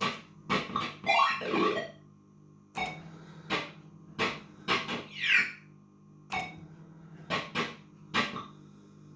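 Gottlieb System 80 pinball machine's sound board putting out distorted electronic blips and two falling synthesized sweeps over a steady low hum. This is the sound fault that comes back about ten minutes after switch-on.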